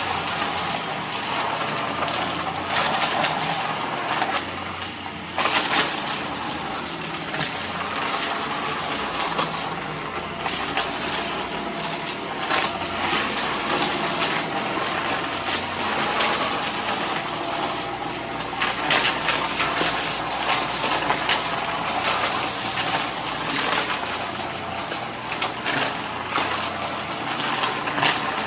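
Vacuum cleaner running steadily while picking up loose debris, a continuous rushing noise broken by frequent crackles and rattles as bits are sucked in.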